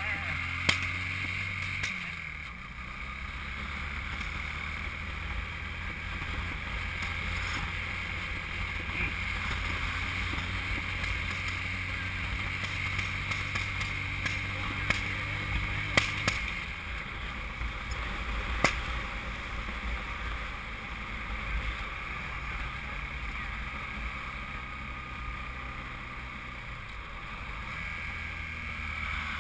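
Honda CM200T's small twin-cylinder engine running on the road, with several sharp backfire pops: about a second in, twice around the middle and again a few seconds later. The backfiring comes from a nearly flat 6-volt battery starving the ignition.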